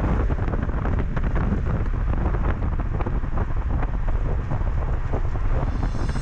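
Honda N-VAN driving in the rain: a steady low rumble of road and wind noise, with many small ticks of rain striking the van.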